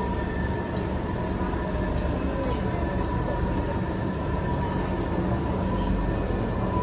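Singapore MRT train running, heard from inside the carriage: a steady low rumble with a thin, steady whine over it.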